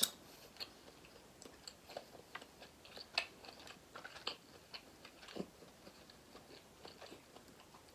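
Close-up chewing and mouth sounds of someone eating seafood: soft, irregular clicks and small crunches, faint throughout.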